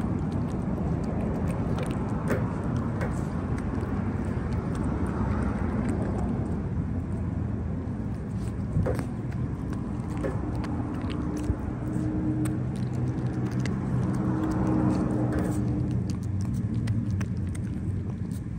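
Steady low rumble of motor traffic, with scattered small clicks and ticks. From about ten seconds in, a steady engine-like hum with several pitches sits on top.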